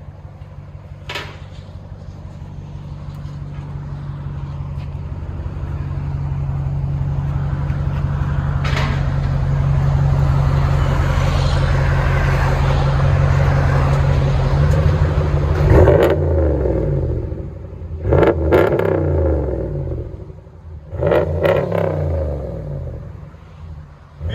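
2017 Ram 1500's 5.7 L Hemi V8 running through a Flowmaster Outlaw muffler with the factory resonators left on: a steady idle that grows louder over the first dozen seconds, then three quick revs of the throttle, about sixteen, eighteen and twenty-one seconds in.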